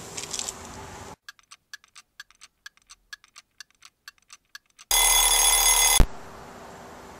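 Ticking-clock sound effect, about four ticks a second over dead silence, then a loud alarm ringing for about a second that cuts off sharply. Faint outdoor background with a little rustling before and after.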